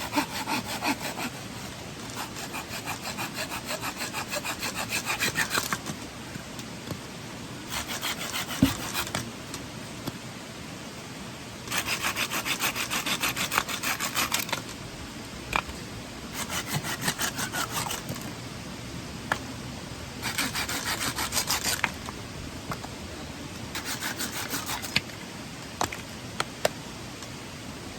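Wood being cut by hand: runs of quick, rasping strokes lasting a few seconds each, broken by short pauses, with an occasional click.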